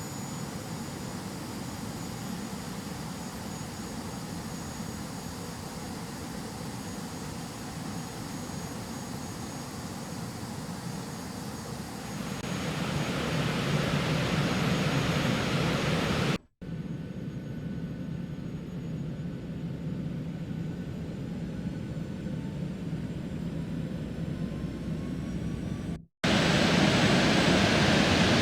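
Jet airliner heard from inside the cabin: steady engine and airflow noise with a faint high whine. About twelve seconds in the engine noise swells louder and fuller. The sound cuts out abruptly twice, with a quieter stretch between the cutouts in which faint rising whines can be heard.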